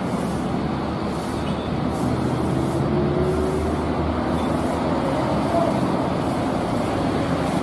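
Steady road traffic noise: a vehicle's engine rumble and tyre noise running continuously, then cutting off abruptly at the end.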